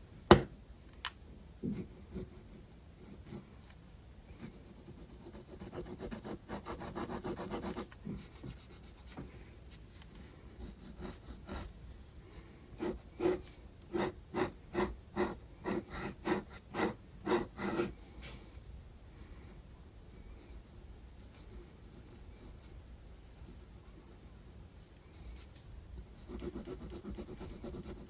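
Graphite pencil scratching on sketchbook paper: a sharp tap just after the start, a stretch of continuous shading about a quarter of the way in, then a run of quick back-and-forth hatching strokes, about two a second, in the middle, and more shading near the end.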